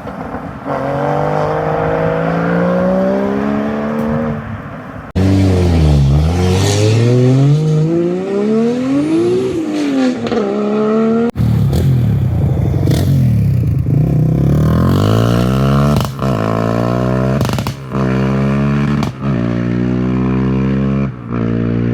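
Car engines revving and accelerating away, their pitch climbing and falling in repeated blips of the throttle. In the last part one car pulls hard through several quick gear changes, each with a short drop in the engine note.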